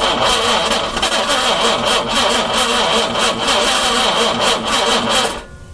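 A 4.2-litre engine turning over on its starter motor, with a steady whine and a regular beat of compression pulses, several a second, cutting off suddenly near the end. The long-dormant engine, its carburetors primed with gas, cranks without catching.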